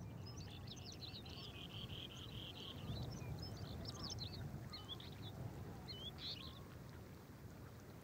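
Several birds calling over a low steady rumble: a fast, high trill in the first two seconds or so, then scattered short chirps and slurred whistled notes.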